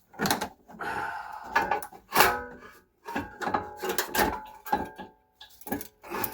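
Metal brake parts clinking and knocking together as they are handled and fitted, a dozen or so sharp knocks, some with a brief ringing tone, and short pauses about three and five seconds in.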